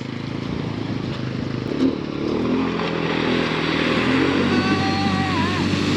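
570 cc ATV quad bike engine running and revving, growing steadily louder.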